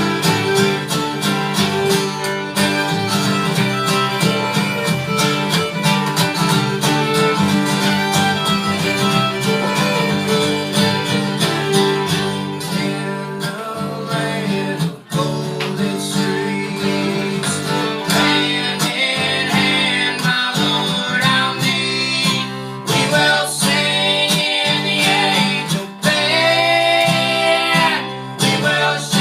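Live acoustic string band playing a folk/bluegrass tune, with a plucked guitar and a fiddle; a voice sings over it in the last third.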